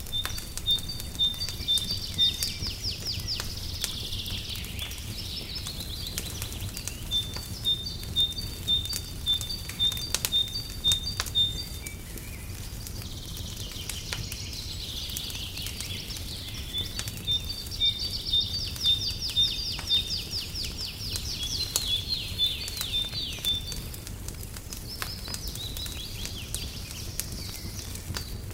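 Songbirds singing in phrases of fast trills and runs of repeated high notes, over the popping and crackling of a wood fire and a steady low rumble. The singing comes in two main bouts, the second starting about halfway through.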